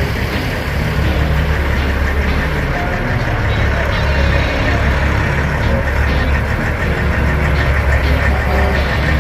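Diesel engine of a 1,500-horsepower Kenworth W900 drag truck running hard, loud and steady with a deep low rumble.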